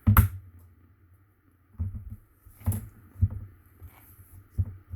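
Handling noises from cardstock crafting at a tabletop: a sharp knock at the start, then several dull knocks and rustles as a piece of cardstock and scissors are handled to trim off the extra.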